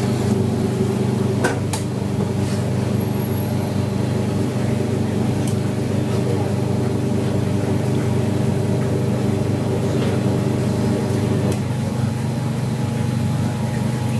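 IPSO 25 lb commercial washing machine running a hot wash: a steady mechanical hum with a few faint clicks.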